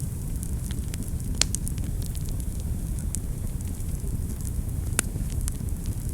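Wood fire burning in a fireplace: a steady low rumble of flames with scattered sharp crackles and pops, the loudest pops about a second and a half in and near the end.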